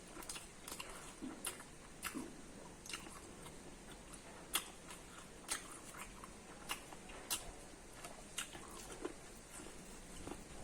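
A person biting and chewing corn close to the microphone, with sharp, irregular crunches or clicks about one or two a second and softer chewing between.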